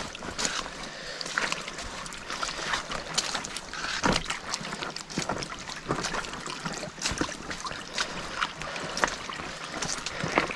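Floodwater splashing and sloshing as someone wades through a flooded dirt track with a mountain bike, in irregular splashes with each step and push.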